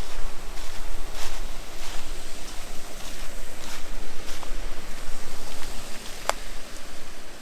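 Footsteps on a forest trail, soft crunching steps about every 0.6 seconds, over a steady rushing background. A single sharp snap comes about six seconds in.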